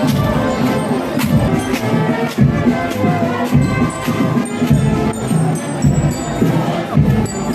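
A procession band playing music, with regular drum and percussion strikes over sustained pitched tones, and crowd noise behind it.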